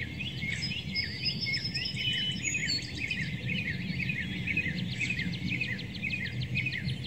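Birds chirping outdoors, many quick repeated chirps overlapping with a few higher held notes, over a low steady background rumble.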